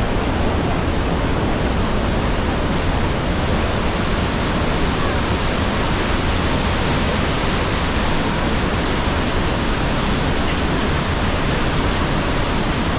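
Loud, steady rush of the Rhine Falls' water pouring over the falls, an unbroken roar of falling water with no pauses.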